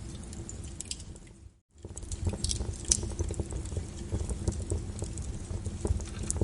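Fireplace fire crackling, with many sharp pops and snaps over a low rumble of flames. About a second and a half in, the sound briefly fades out to near silence, then comes back.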